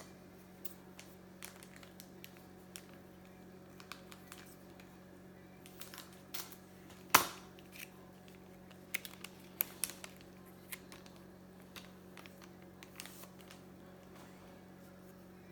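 Baseball cards being handled and flipped through: scattered light clicks and taps, one sharper snap about seven seconds in and a quick cluster of clicks around nine to ten seconds, over a faint steady hum.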